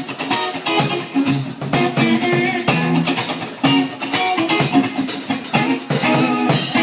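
Live funk band playing an instrumental passage with no singing: guitar in front, over bass guitar and a drum kit keeping a steady beat.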